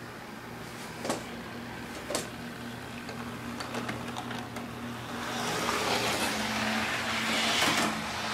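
Model train running on its track: a steady mechanical hum, with two sharp clicks about a second apart near the start, growing louder and hissier about five seconds in.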